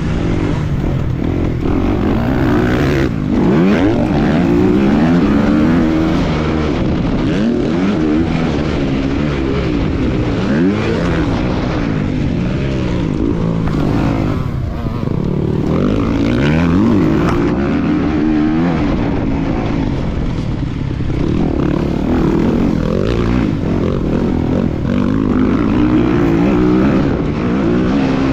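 250cc motocross bike engine revving up and falling back over and over, rising in pitch through each gear and dropping off between, without a break.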